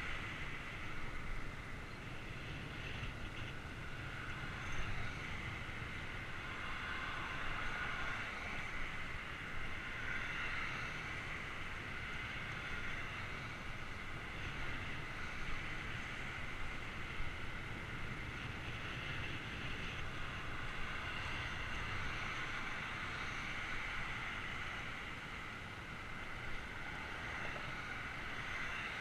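Steady wind rush and rolling noise from a bicycle ride, recorded on a GoPro, with a low rumble and an even hiss throughout.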